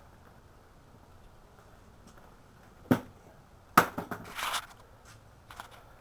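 Motorcycle saddle being unlatched and lifted off. After a quiet stretch there is a sharp click about three seconds in. A louder knock follows a second later with a brief scraping rustle, then a few faint knocks.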